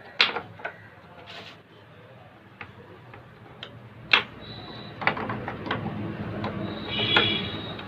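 Scattered metallic clicks and knocks of a 17 mm spanner working the steering rack damper adjuster on a Maruti Suzuki Alto, tightening it to take up the play of a loose damper bush, with a busier rattling stretch from about five seconds in.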